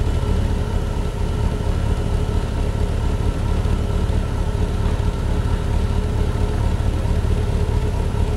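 Mercedes-Benz petrol V8 idling steadily, an engine that had stood unused for years running again after a cold start.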